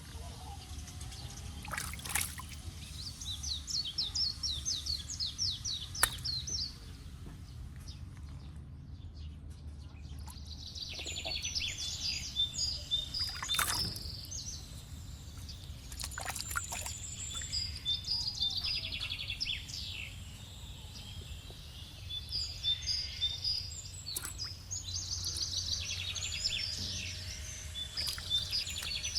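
Birds chirping and trilling in quick repeated runs, in several bouts with a short lull partway through, over a steady low rumble.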